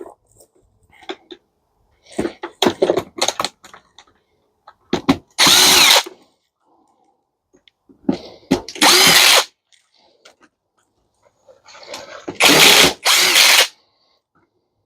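A power drill-driver run in short bursts, four times, each lasting about half a second to a second, backing screws out of a dishwasher to free its motor. Before the first burst there are a few quick knocks and clicks of handling.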